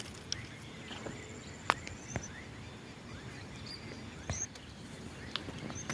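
Short, high bird chirps and a thin whistle scattered over a steady outdoor hiss, with a few sharp clicks.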